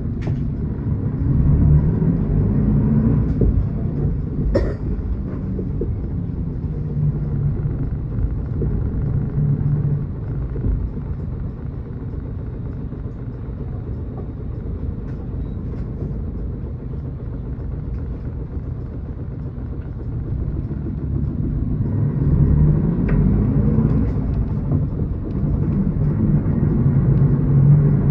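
A Miyazaki Kotsu route bus's engine heard from inside the cabin, rising in pitch as it pulls away near the start, running steadily through the middle, then accelerating again from about 22 seconds in. A single sharp knock or rattle about five seconds in.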